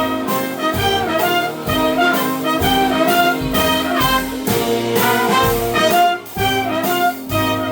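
Swing big band playing live, the brass section of trumpets and trombones leading over a steady rhythm-section beat, with no vocal yet.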